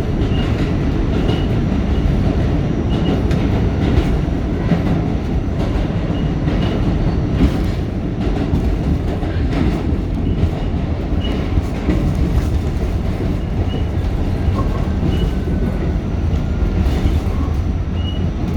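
R46 subway car running along the track, heard from inside the car: a steady loud rumble with wheels clicking over rail joints every so often.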